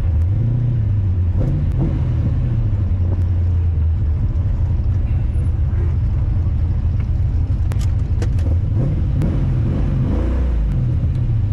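1996 Corvette's LT4 V8 revving up and falling back several times under hard driving, misfiring. The driver believes it is running on five or six cylinders and suspects the spark plugs, the wires or the OptiSpark distributor.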